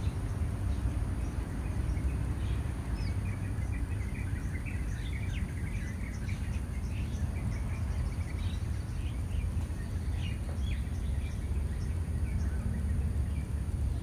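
Scaly-breasted munia giving many short, high chirps, thickest from about two seconds in until near the end, over a steady low rumble.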